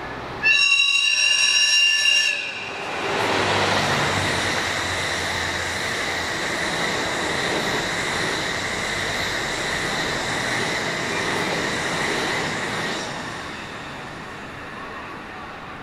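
A train horn sounds loudly for about two seconds. Then a JR East electric train passes at over 100 km/h: a steady rush of wheel and rail noise with a high steady whine, fading over the last few seconds.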